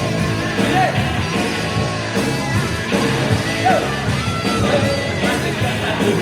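Live band playing loud amplified music, with gliding pitched notes over a full band.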